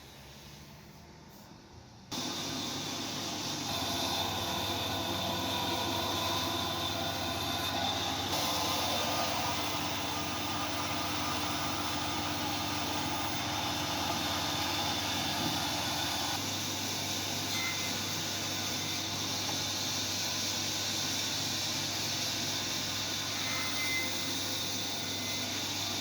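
A power tool running steadily, with a steady whine over a rushing noise. It starts suddenly about two seconds in and cuts off at the very end.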